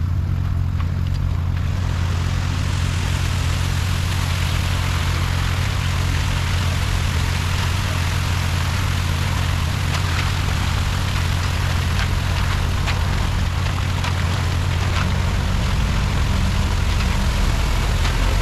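Concrete mixer truck's diesel engine running steadily at a constant speed, with a steady rushing noise joining about two seconds in.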